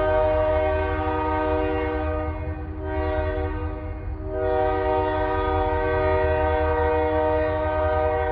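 Diesel locomotive's multi-chime air horn sounding over the low rumble of the GP40-2 engines. There is a long blast, a short one about three seconds in, then another long blast, the close of a grade-crossing signal.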